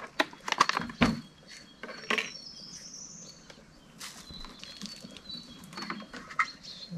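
Birds chirping, with one rising chirp a couple of seconds in and short high calls after it. Several sharp clicks and knocks come in the first second or so, with a few more later.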